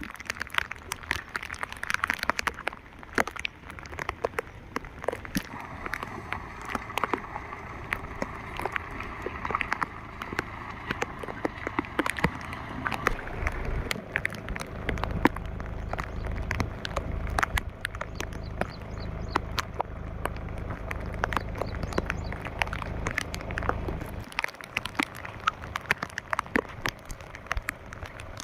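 Rain falling, with many sharp drop ticks on a nearby surface. A low rumble joins in the middle and cuts off suddenly about four seconds before the end.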